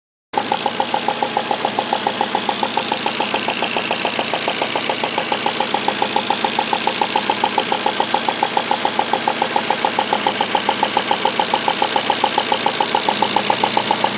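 Peugeot petrol engine idling with a regular, rapid toc-toc-toc tapping of about six beats a second, from spark plugs that were left loose in the head. The tapping sounds like a serious internal knock, and the mechanic first took it for a tappet.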